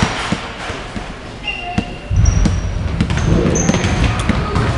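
Basketball game in a gym: a ball bouncing and sneakers squeaking in short high chirps on the court, over crowd chatter that grows louder about two seconds in.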